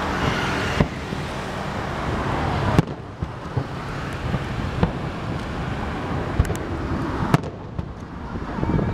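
Aerial firework shells bursting: four sharp bangs about two seconds apart, the loudest about three seconds in, over steady background noise.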